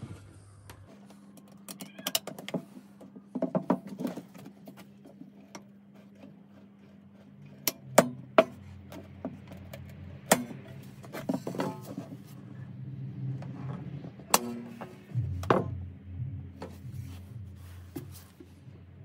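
Irregular sharp clicks and knocks of hard parts being handled and set down, over a low steady hum; the loudest pair of knocks comes about eight seconds in.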